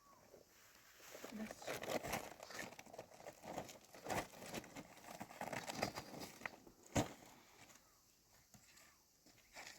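Irregular rustling and crinkling, like material being handled, with scattered clicks and one sharp knock about seven seconds in.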